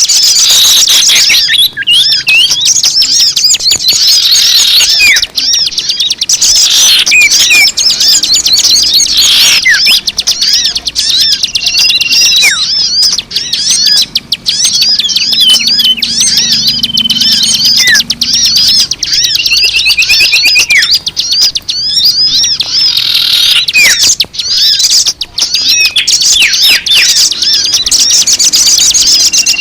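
A dense chorus of many small birds chirping and twittering without pause: a mixed-species bird-lure (pemikat) recording, with overlapping high chirps, trills and a few held whistles.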